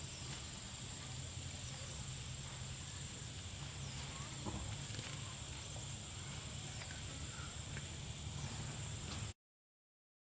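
Outdoor rural ambience: a steady high-pitched insect drone over a low hum, with a few faint chirps, cut off abruptly to dead silence about nine seconds in.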